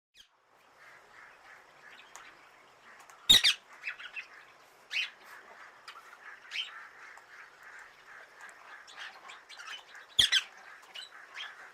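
Parrots squawking: a steady chatter of calls with many short squawks, and two loud harsh squawks about three seconds in and again near the end.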